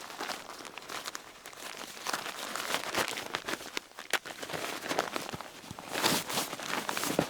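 Irregular rustling and crunching with many small crackles, louder in two spells about two seconds in and near the end.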